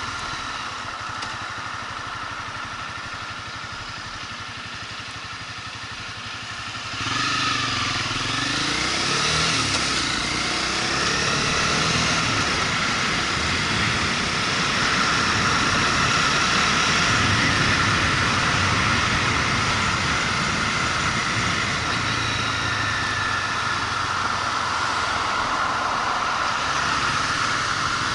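Motorcycle engine running low and steady, then about seven seconds in it gets louder with a rising engine pitch as the bike accelerates away, and it carries on at riding speed with its pitch rising and falling.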